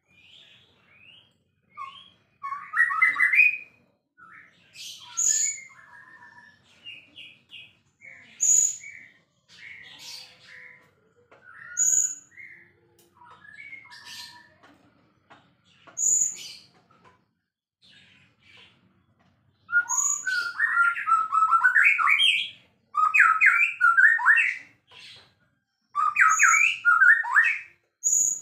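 White-rumped shama (murai batu) in full song: varied whistled phrases broken by short, sharp high notes every few seconds. About twenty seconds in, it breaks into a louder, dense run of rapid phrases.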